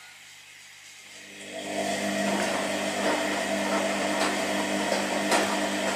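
Washing machine whose motor starts up about a second and a half in and then runs steadily with a humming whine, with a few brief clicks or knocks from the drum.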